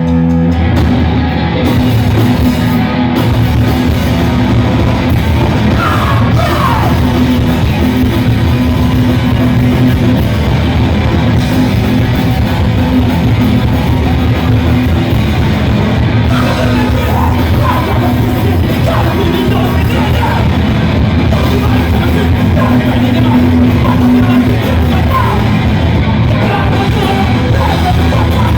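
Punk rock band playing live, loud and continuous, with yelled vocals over the band.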